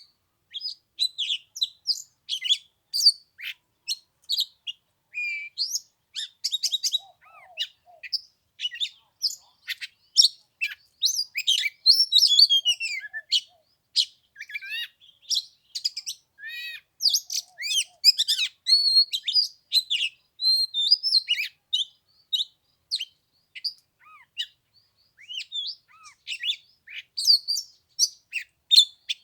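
Oriental magpie-robin singing a long, varied song of quick whistles and chirps, with short pauses between phrases.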